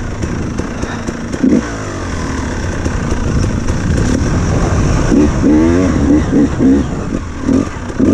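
Enduro dirt bike engine running under varying throttle on a slippery wet trail, its note rising and falling, with a run of short revs a little past halfway.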